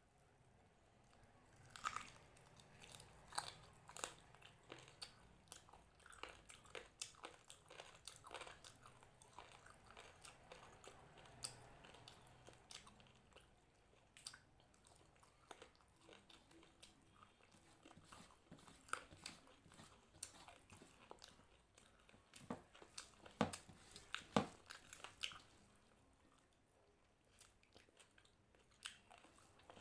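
A person chewing and biting crunchy food close to the microphone, with many small crackles and crunches and a few louder bites near the end.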